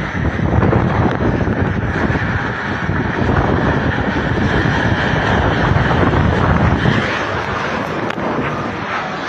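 Strong gusting wind rushing and buffeting a phone microphone, rising and falling in strength.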